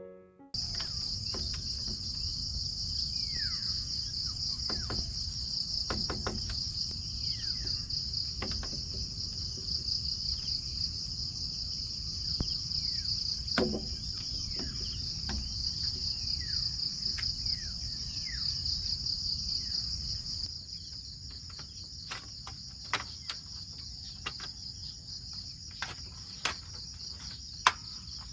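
A chorus of insects trilling: a steady, high, finely pulsing buzz. Short falling chirps sound now and then in the first part, and scattered sharp clicks come in the later part.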